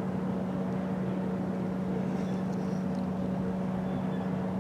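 A steady low hum holding one unchanging pitch with fainter overtones above it.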